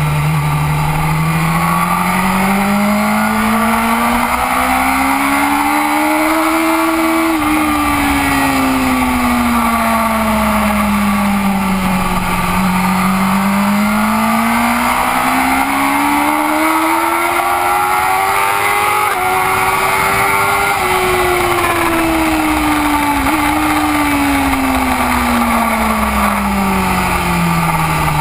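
BMW S1000RR inline-four engine heard from on board the bike, its note climbing steadily for several seconds and then easing back down, twice over, with steady wind rush.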